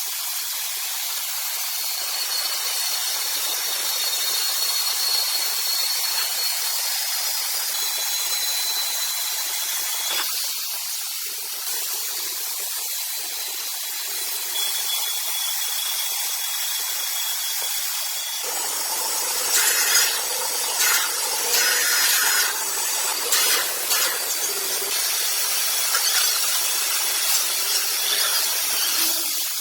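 Sawmill saw cutting through a rosewood log: a steady hiss with a faint high whine. About 18 seconds in it turns rougher, with uneven clattering.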